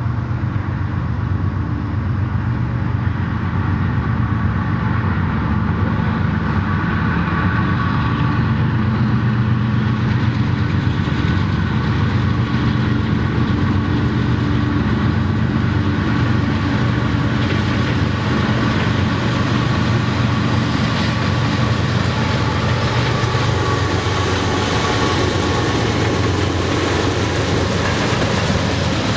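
A loaded taconite train passes, led by GE diesel locomotives. The engines' steady drone carries throughout, and wheel and rail noise grows as the locomotives and the first loaded ore hoppers roll by.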